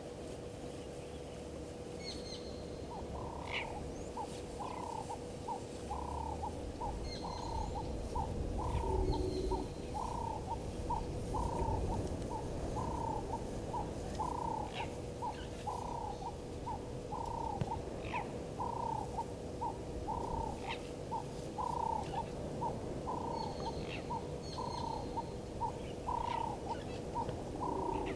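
A bird calling one short note over and over, about twice a second, starting a few seconds in, with scattered higher chirps from other birds. A faint steady hum runs underneath.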